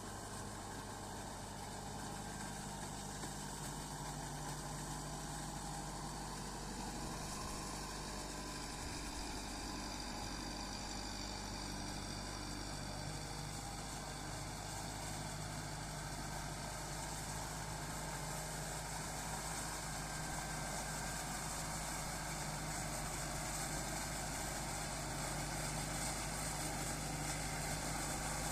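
Kubota MU5501 tractor's four-cylinder diesel engine running steadily, growing slightly louder near the end.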